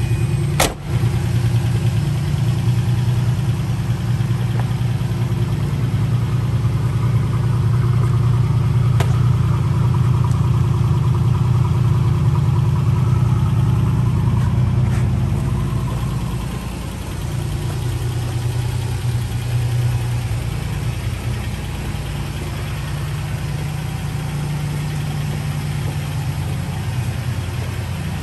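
1983 TVR Tasmin's Ford V6 engine idling steadily. The sound breaks off for an instant about half a second in and gets somewhat quieter a little past halfway.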